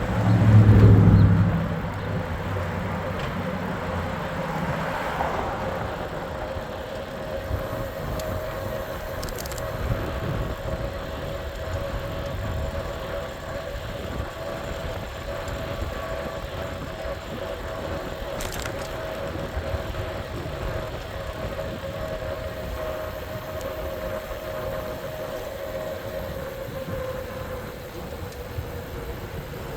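Riding noise on an e-bike: a steady whine, most likely from the electric motor, over wind and road noise. The whine sinks a little in pitch near the end. A loud low rumble fills the first two seconds.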